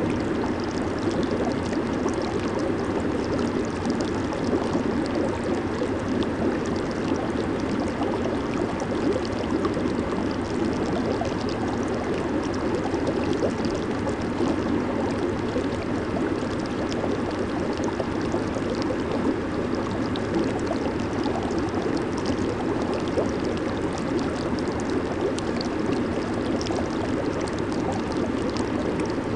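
Jacuzzi water churning and bubbling steadily from its jets, with a fine fizz of popping bubbles.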